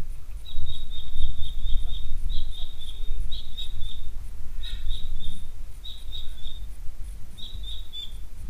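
A small bird calling in about six short runs of quick, high chirps, each run lasting under a second or two, over a steady low rumble.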